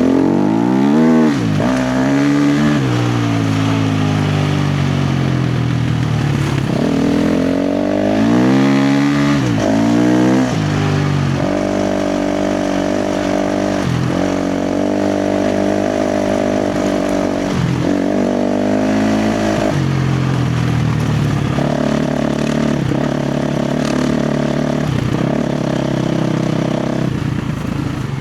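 KTM 350 XC-F dirt bike's single-cylinder four-stroke engine revving hard under throttle on the trail. Over the first ten seconds or so the pitch rises and falls sharply several times. It then holds steady at high revs, broken by brief dips, and settles a little lower in the last third.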